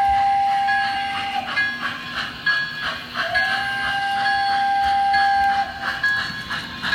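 Model steam locomotive's Proto-Sound 3.0 steam whistle blowing repeated long blasts: one ends about a second and a half in, a longer one sounds from about three seconds to nearly six, and another begins at the very end. Under the blasts runs the rhythmic chuffing of the engine's sound system.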